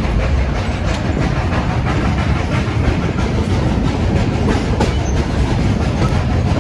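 Narrow-gauge passenger train rolling along the track, heard from aboard: a steady rumble of wheels on rails with occasional sharp clicks.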